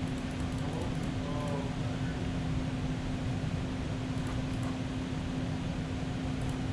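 Steady mechanical hum with a constant low tone, from fans or ventilation running in the machine room.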